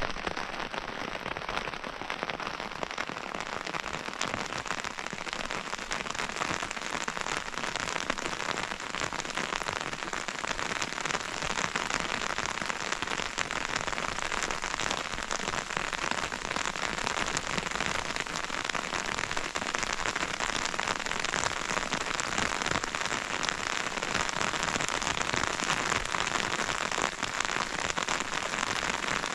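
Heavy rain falling steadily: a dense, unbroken hiss of countless drops striking surfaces.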